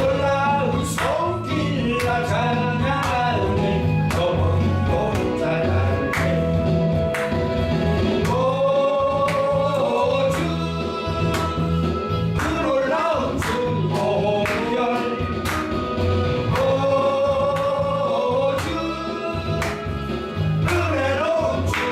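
Gospel praise song: singing with long held notes over a band with a steady drum beat and bass.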